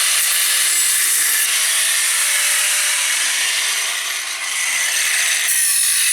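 A metal-cutting tool runs steadily on the fender mount, making a loud, even hissing noise with a slight dip in level past the middle.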